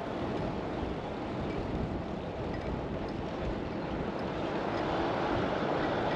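Steady rushing noise of riding a bicycle on the road, with wind on the microphone and tyre noise, swelling a little after about four seconds.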